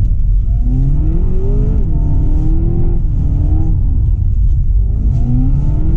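Seat Leon Cupra 300's 2.0-litre turbocharged four-cylinder engine heard from inside the cabin, its revs rising and falling several times as the driver works the throttle, over a steady low rumble.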